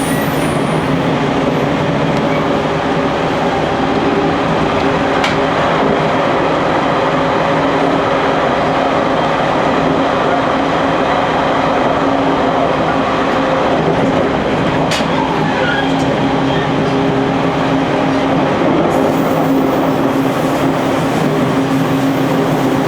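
JR Kyushu 813 series electric multiple unit running at speed, heard from the driver's cab: a steady rumble and rush of wheels on rail with a constant hum. Two single sharp clicks, about 5 and 15 seconds in.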